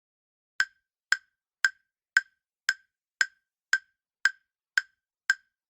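Quiz countdown-timer sound effect: sharp wood-block-like ticks about two a second, ten in all, starting just over half a second in, with dead silence between them.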